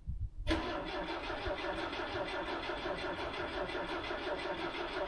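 An engine running steadily with an even, regular pulse, coming in about half a second in after a brief silence.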